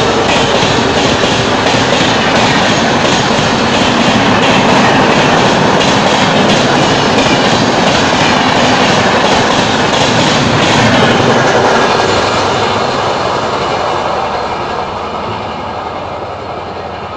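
Express train passing at high speed, its coaches rushing by with wheels clattering on the rails; from about twelve seconds in the sound steadily fades as the train moves away.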